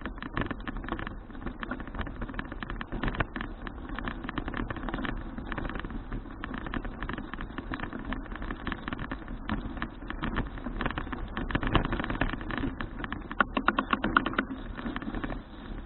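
Riding noise from a folding bicycle: fast, irregular clicking and rattling over a steady low rumble, busiest about twelve to fifteen seconds in.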